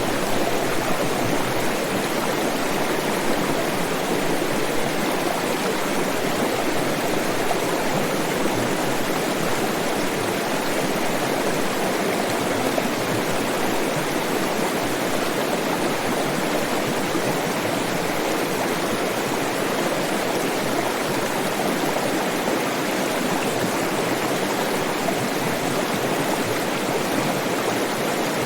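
Flowing water running steadily, a continuous even rush with no breaks.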